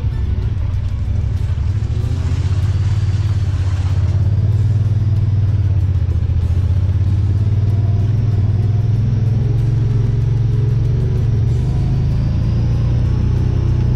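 Honda Pioneer 1000 side-by-side's engine running steadily as it drives along a trail, a continuous low drone.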